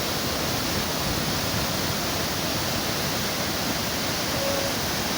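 Waterfall and river water rushing, a steady, even noise that stays at the same level throughout.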